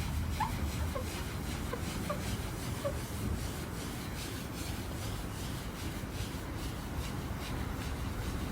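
Pad rubbing scratch-remover compound into car paint by hand, in rhythmic back-and-forth strokes of about two a second.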